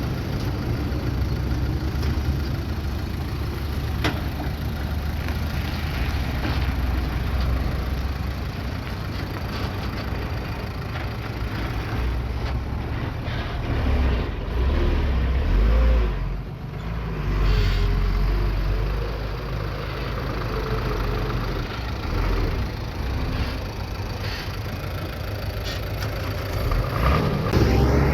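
Bulldozer's diesel engine running, its level swelling and dipping, with a few sharp knocks along the way.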